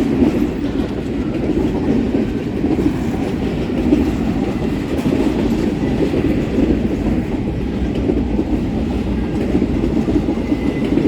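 A long freight train of intermodal well cars rolling past, with a steady rumble of steel wheels on the rails.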